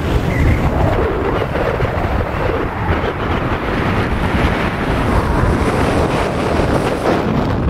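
Strong wind buffeting the microphone: a loud, continuous, gusting rumble with no let-up.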